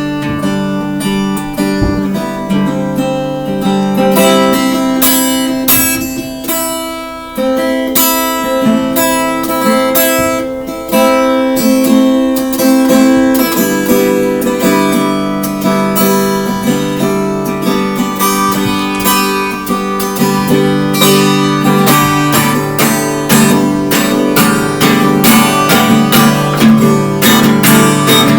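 Acoustic guitar strummed, chords ringing with steady strokes that grow quicker and denser after about halfway; no singing.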